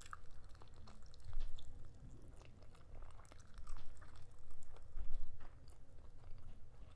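A person chewing and biting food close to the microphone: irregular wet clicks and small crunches, with louder bites about a second and a half in and again around three and a half to five seconds in.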